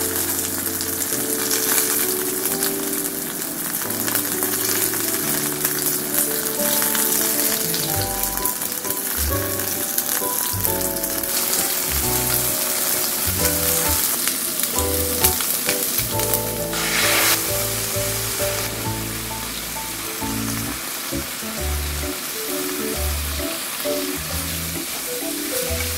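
Whole capelin sizzling steadily as they pan-fry in oil in a nonstick frying pan, then konjac and green pepper sizzling as they are stir-fried, with a brief louder hiss about two-thirds of the way through. Light background music plays under it.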